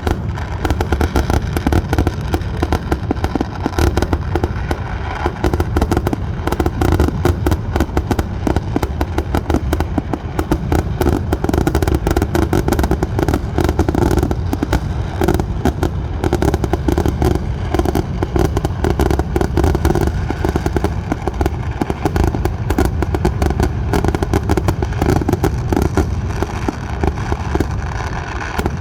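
Fireworks going off in an unbroken barrage: a dense stream of bangs and crackles, many per second, with a heavy low rumble underneath.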